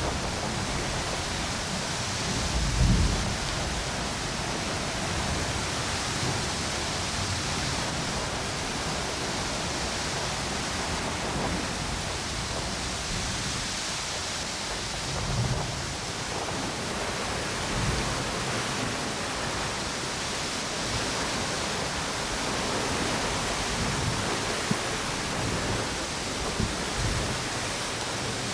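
Ocean waves and strong wind: a steady wash of surf and wind noise, with a few brief low rumbling gusts, the strongest about three seconds in.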